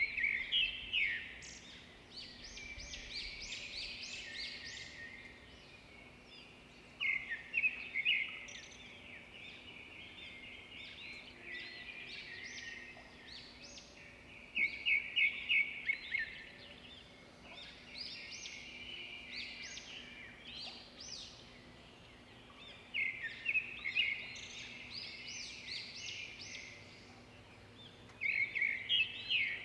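Birds chirping and singing, with loud bursts of quick repeated notes every several seconds and softer chirping in between.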